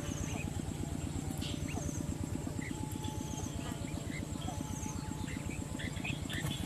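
Outdoor ambience: a steady, rapid low throbbing with scattered short, high chirps and a faint high whine, typical of insects and small birds.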